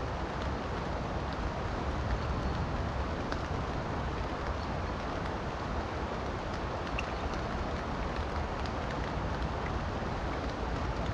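Steady rushing of a river with rain falling, dotted with scattered light ticks of raindrops.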